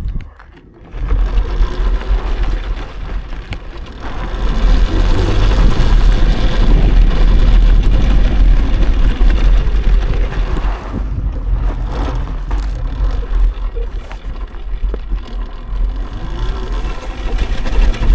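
Electric dirt bike riding over loose gravel: tyre and ride noise under a heavy low rumble, growing louder about four seconds in.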